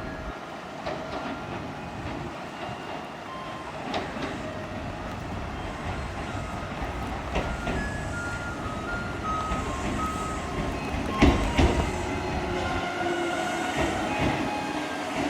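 Kintetsu Minami-Osaka Line electric train moving through the platform, a steady rumble with short whining tones, and wheels clacking over rail joints; the loudest pair of clacks comes about 11 seconds in.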